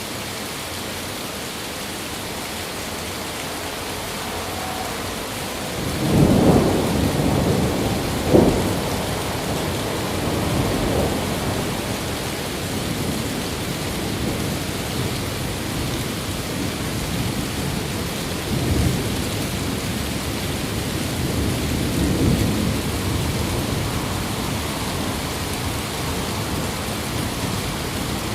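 Steady heavy rain with thunder: a rumble rolls in about six seconds in, peaks in a sharp crack a couple of seconds later, and fainter rumbles follow twice more near the end.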